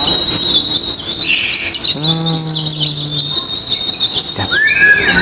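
Pleci (white-eye) songbirds singing in competition, a dense stream of rapid high twittering chirps and trills from several birds at once.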